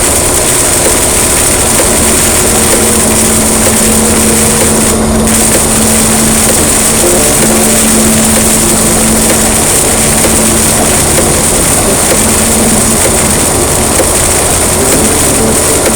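Heavy rain pouring down, a loud, steady hiss, with a few faint held tones underneath.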